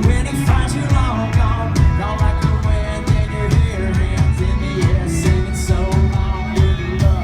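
Live country band playing loudly, with drums and bass keeping a steady beat under pitched instruments and a sung vocal.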